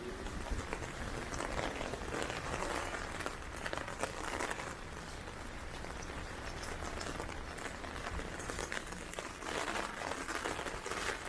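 Heavy rain pattering on an umbrella overhead, a dense, even patter of drops, with gusty wind rumbling on the microphone.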